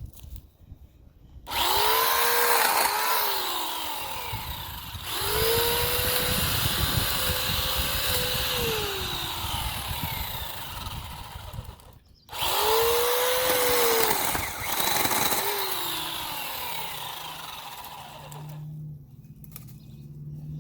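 Sun Joe 12-inch electric chainsaw run in three bursts while cutting into hedge tree branches. Each time, its motor pitch climbs quickly to speed, then falls away as the trigger is eased off, with a short pause between bursts.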